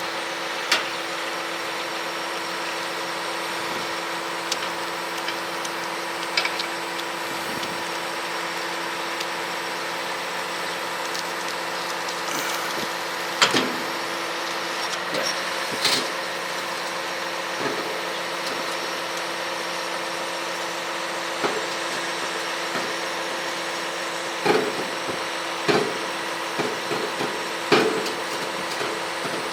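An engine running steadily at idle with a constant hum, with a few short knocks or clanks, most of them in the second half.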